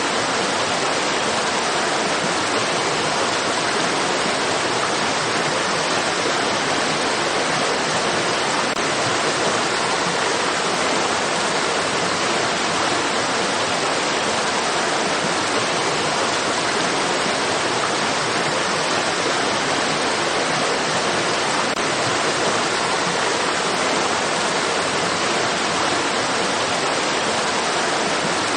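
Water of a stream rushing steadily, a dense even hiss with no change in level.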